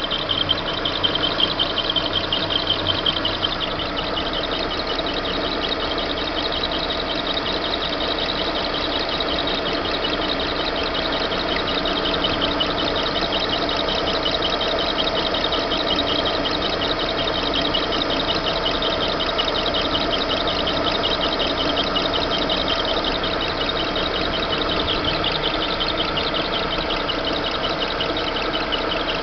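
Chevrolet Monza engine idling steadily with a fast, high-pitched repeating chirp from the engine's drive belt, an annoying belt noise.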